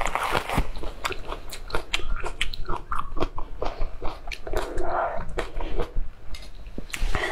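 A person chewing a mouthful of food with the lips closed: wet smacking and many short mouth clicks.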